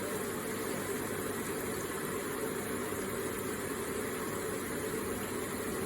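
Electric water feature with water running steadily in a continuous, even wash.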